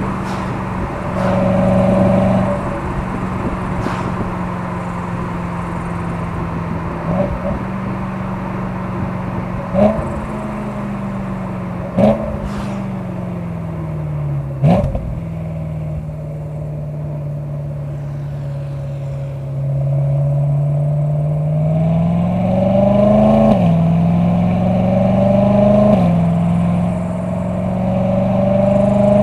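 BMW E92 M3's naturally aspirated S65 V8 through an M Performance exhaust, driving at moderate revs. About a third of the way in, three sharp cracks come from the exhaust while the revs fall. In the last third the engine pulls up through the gears, its pitch rising and then dropping at each of two upshifts.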